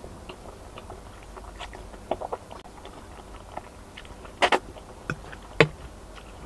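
Close-up mouth sounds of someone slurping up and chewing spaghetti: scattered small wet smacks and clicks, with two louder smacks about a second apart past the middle.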